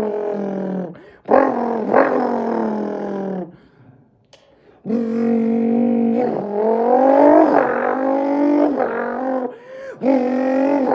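A man's vocal imitation of a Nissan 370Z's V6 engine: buzzing, engine-like revs from his mouth that rise and fall in pitch. It comes in several long runs broken by short pauses, with one long climbing rev in the middle.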